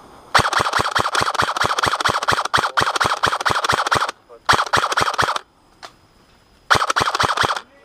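Airsoft gun firing on full auto, about seven shots a second, in three bursts: a long one of nearly four seconds, then two short ones of about a second each.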